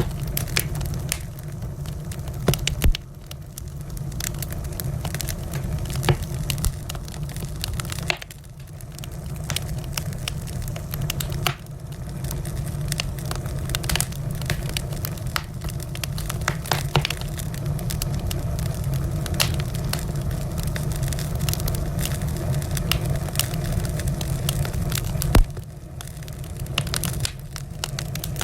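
Wood fire in a fireplace crackling: a dense run of small snaps and a few louder pops over a steady low rumble.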